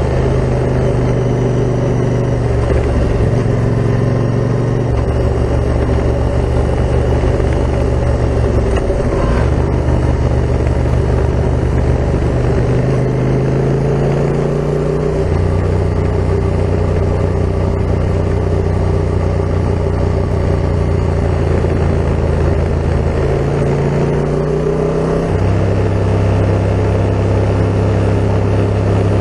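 Yamaha MT-07's 689 cc parallel-twin engine running through an Akrapovic full carbon exhaust while riding. Its pitch steps up and down several times as the throttle and revs change.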